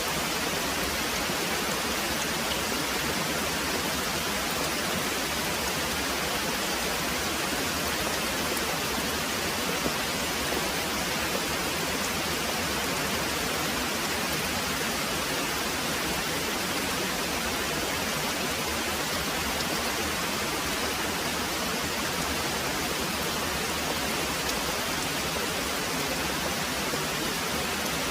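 Very heavy rain pouring steadily, a dense, even hiss with no distinct drops or thunder standing out.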